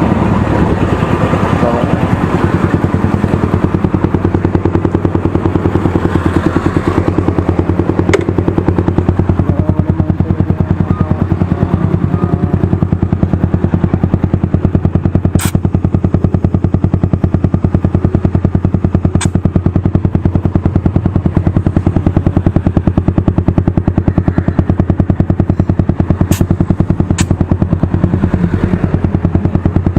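Motorcycle with a loud aftermarket exhaust pipe idling steadily, its exhaust pulses even and unchanging, with a few sharp clicks now and then.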